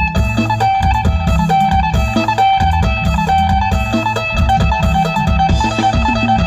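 Phin, the Isan plucked lute, playing a quick run of plucked notes over a steady low beat.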